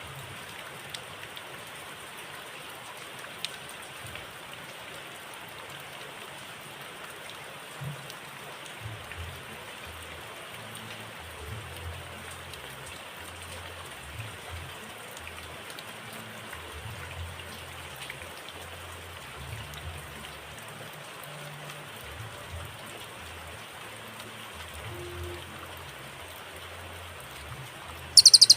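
A steady hiss like light rain, with faint low thumps from about eight seconds in. Just before the end, a loud, rapid, high-pitched cililin song cuts in suddenly.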